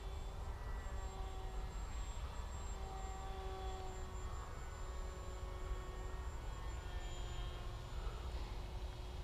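Electric motor and propeller of a Bixler RC plane whining in flight, a thin steady tone that drifts slightly up and down in pitch, over low wind rumble on the microphone.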